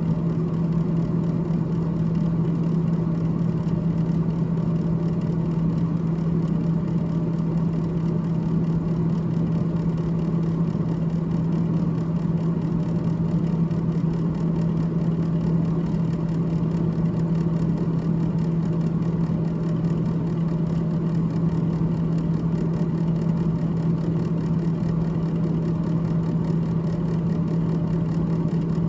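Freezer fan of a GE GTH18XCTZRBB refrigerator running, a steady hum with one constant low tone and an even whir beneath it.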